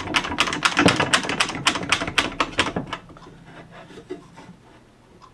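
Pieces of wood being handled and set in place: a quick, irregular run of knocks and scrapes of wood against wood, dying down to a few soft taps after about three seconds.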